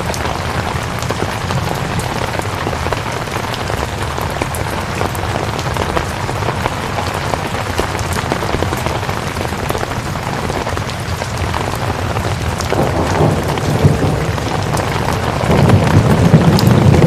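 Steady rainfall, a dense even patter, with low rolling thunder rumbles that swell about two-thirds of the way in and again, louder, near the end.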